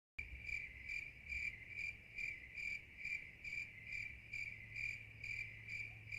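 Cricket chirping in an even rhythm, about two and a half high single-pitched chirps a second, over a faint low hum.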